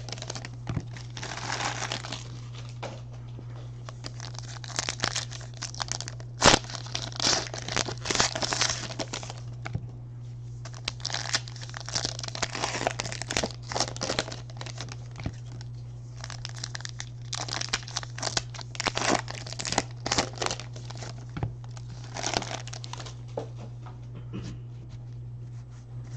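Wrappers of 2019 Panini Donruss baseball card packs being torn open and crinkled by hand in quick irregular bursts, as pack after pack is opened. A steady low hum runs underneath.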